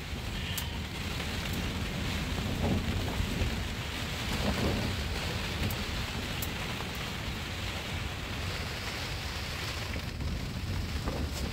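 Heavy rain falling steadily over a low rumble.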